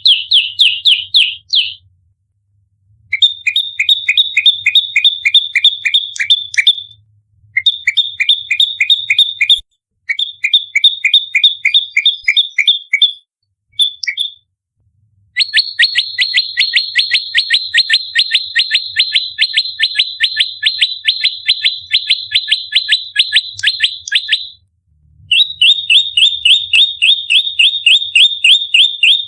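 Prenjak lumut (a prinia) singing its rapid, aggressive 'fighting' song: fast runs of sharp, loud chirps in bursts of a few seconds with short breaks, the longest run lasting about nine seconds past the middle.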